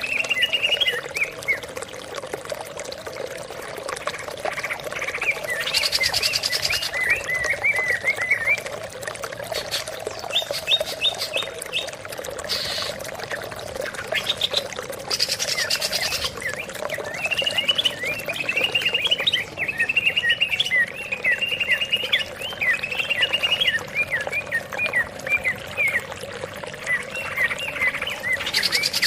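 Greater green leafbird (cucak ijo) singing: long runs of quick chirping notes, broken now and then by brief higher-pitched trills.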